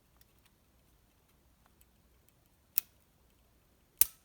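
Two sharp clicks about a second apart, the second louder, from small metal engine parts and hand tools being handled during piston assembly.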